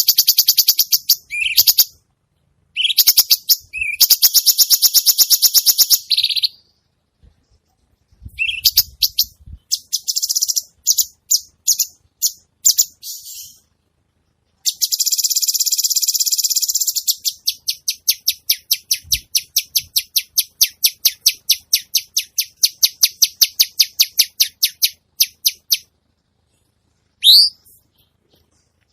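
Songbird giving harsh, buzzy trills and rattles of the 'kasaran' kind used in masteran recordings. The phrases are broken by short gaps: a long rapid trill, stuttering chips, a steady buzz, then a long run of quick chips at about four a second. A single rising whistle comes near the end.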